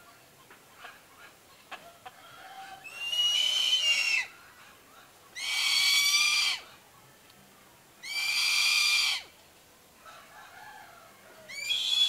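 A bird's loud, drawn-out, high-pitched call, given four times about two and a half seconds apart. Each call lasts a little over a second and opens with a rising note. The calls begin about three seconds in.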